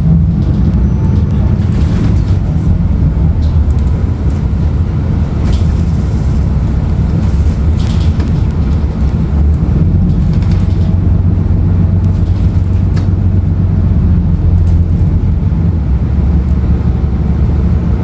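Steady low rumble of a 2016 Nova Bus LFS with its Cummins ISL9 diesel engine, heard from inside the passenger cabin, with occasional light clicks.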